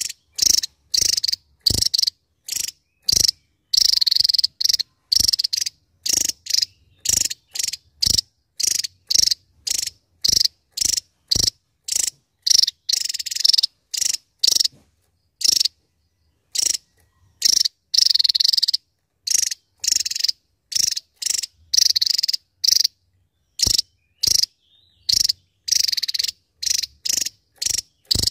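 Javan tesia singing its rapid-fire 'nembak' song: a fast string of short, sharp, high-pitched notes, about two a second, broken by a few longer rapid phrases and brief pauses.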